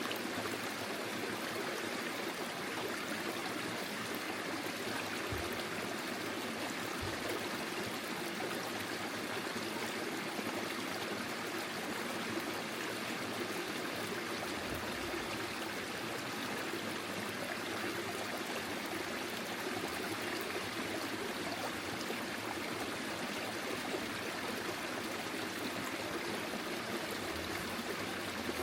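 Forest stream flowing over stones, a steady rushing and trickling of water.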